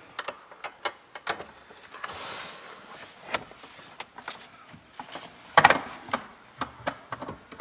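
Scattered metallic clicks and knocks of hand tools and parts being handled in a car's engine bay, with a short hiss about two seconds in and one louder clank a little past halfway.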